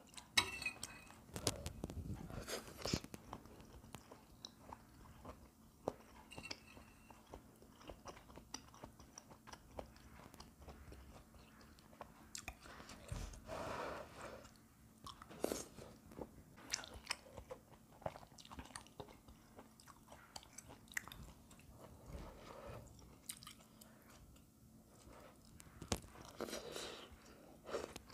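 A person chewing and biting food, quietly, with scattered small clicks and taps of chopsticks.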